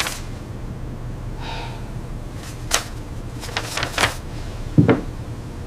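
A few sharp clicks and knocks over a steady low hum, with one heavier knock near the end.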